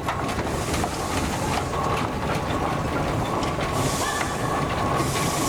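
Steam engines in a parade passing by, running with a steady low rumble and scattered knocks and clanks. A few bursts of steam hiss come near the start and again near the end.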